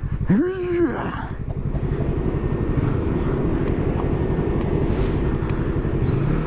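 Yamaha YZF-R3 parallel-twin engine running under way, with wind rush on the helmet microphone; the engine note climbs near the end. A short shout from the rider about half a second in.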